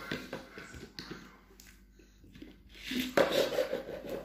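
Close-up chewing and mouth sounds of a person eating fried plantain, with a few soft clicks in the first second and a louder stretch of chewing about three seconds in.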